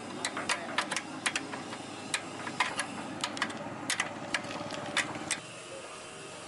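Irregular sharp clicks and knocks of hand tools working on tractor parts, stopping about five seconds in.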